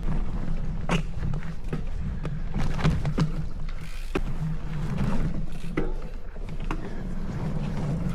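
Riding a bicycle uphill: a steady low rumble with scattered sharp clicks and ticks from the bike.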